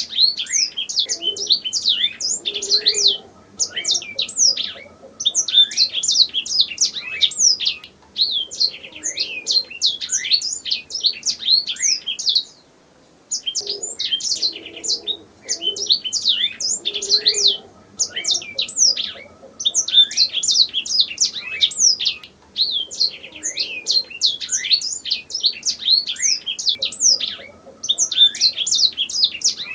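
Domestic canary singing: long, fast phrases of rapid high chirps and rolling trills, each phrase a few seconds long, separated by brief pauses.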